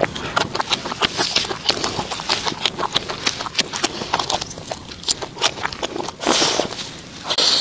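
Close-up chewing and crunching of crispy food: a dense, irregular run of sharp crunches and clicks.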